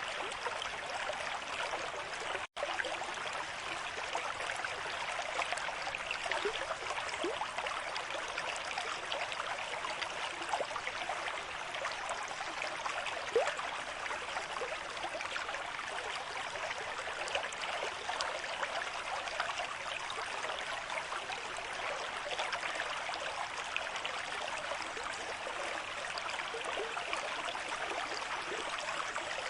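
River stream flowing at a moderate rate: a steady rush of water with small gurgles and splashes scattered through it. The sound cuts out for an instant about two and a half seconds in.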